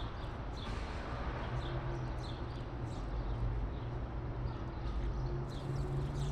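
Small birds chirping, many short high chirps that fall in pitch, repeated irregularly a few times a second, over a steady low hum and a haze of background noise.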